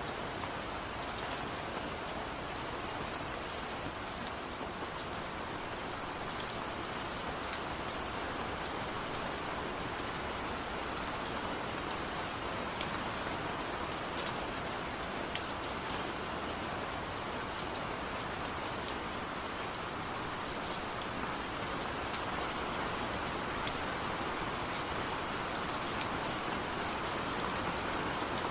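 Steady rain falling, with scattered close drops ticking sharply through the even hiss.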